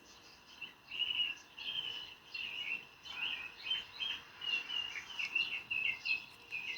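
A bird chirping over and over in short high notes, about three a second.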